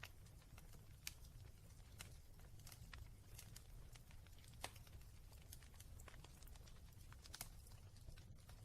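Wood fire crackling in a fireplace: irregular small pops and snaps over a low steady rumble, with sharper pops about a second in, midway and near the end.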